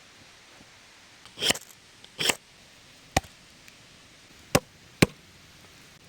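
Two short rasping sounds, then three sharp separate knocks about a second apart, like work with a tool or utensil.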